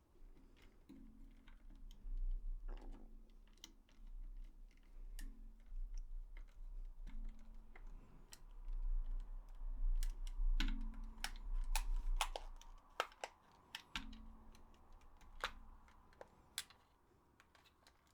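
Irregular small plastic clicks and taps from handling DualShock 4 controller parts, with dull low thumps of parts being set down or pressed together on the bench.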